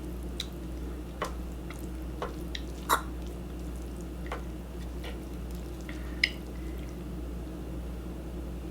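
Close-up wet eating sounds: scattered sharp clicks and squishes, about seven in all, from handling and eating saucy shrimp and ramen. The loudest clicks come about three and six seconds in.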